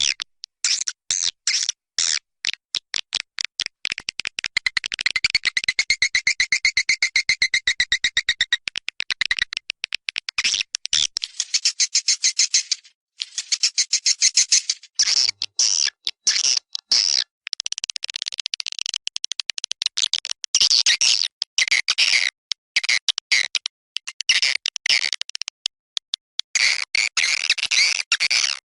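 Recorded swiftlet calls played as a lure sound: rapid trains of clicks and high twittering chirps, with a buzzy trill a few seconds in. Many abrupt cut-outs and a brief gap about halfway through show it is an edited playback track.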